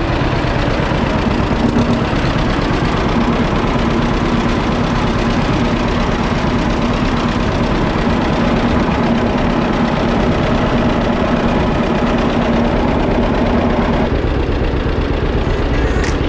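John Deere two-cylinder tractor engine running with a steady, even pulsing beat; its tone changes slightly near the end.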